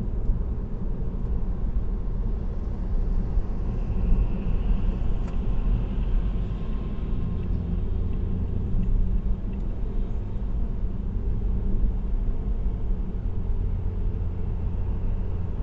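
Car cruising steadily on an expressway: a continuous low rumble of tyre and road noise with engine drone.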